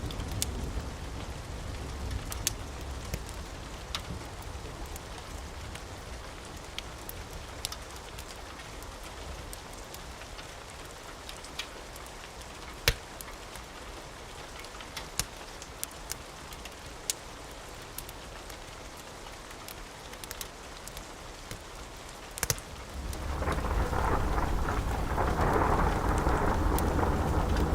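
Steady rain with scattered sharp crackles and pops from a wood fire. A low thunder rumble fades away over the first few seconds, and about 23 seconds in a loud roll of thunder swells up and keeps rumbling.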